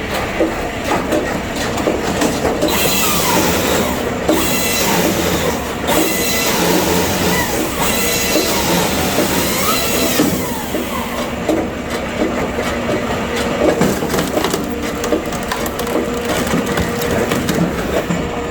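Firewood-processing machinery working oak logs: continuous mechanical rattling and clattering with wood knocking and cracking. A few brief rising and falling squeals come between about 3 and 10 seconds in.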